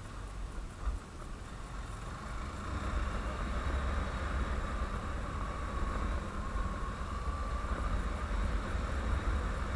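Honda CBF150 single-cylinder motorcycle engine running while riding, with a low wind rumble on the microphone. It gets louder about two and a half seconds in, as the bike picks up speed.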